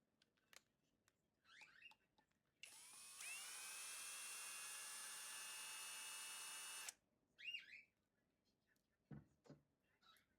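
Hair dryer switched on: its motor whines and the air rushes. It steps up to full speed about half a second after coming on, runs steadily for about four seconds, and is switched off abruptly.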